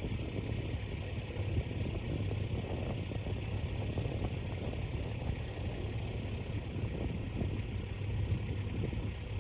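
A vehicle engine running steadily with a low hum, with a fast rattle over it.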